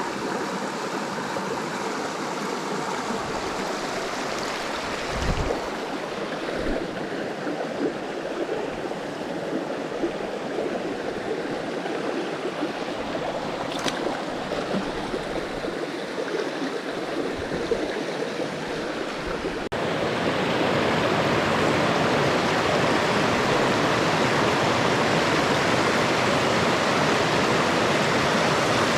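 Small mountain creek flowing over rocks, a steady rush of water. About two-thirds of the way through it abruptly becomes louder and fuller, as the sound switches to a spot nearer the running water.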